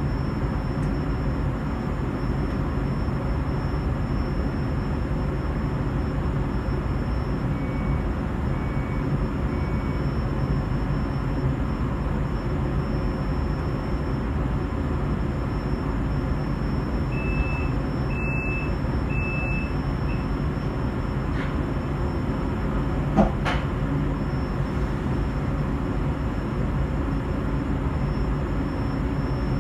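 Fertagus electric commuter train carriage in motion: a steady low rumble of running gear and rails inside the passenger car. Short electronic beeps sound twice, a few faint ones about eight seconds in and a louder row around seventeen seconds, and a single sharp knock comes about twenty-three seconds in.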